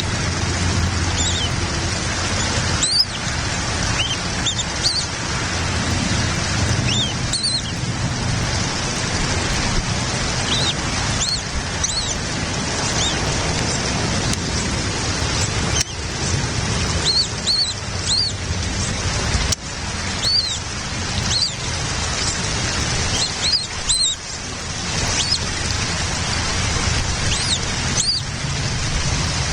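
Steady hiss of rain with many short, high-pitched bird chirps scattered throughout, some in quick pairs.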